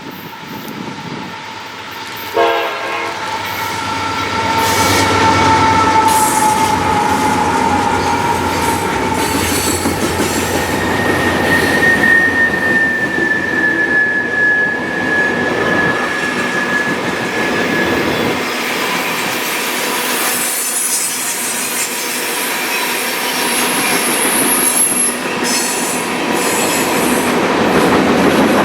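A train passing close by: a chord horn sounds a couple of seconds in, its notes sagging slightly in pitch as it goes by. Then a single high tone holds for several seconds over steady rolling wheel and rail noise.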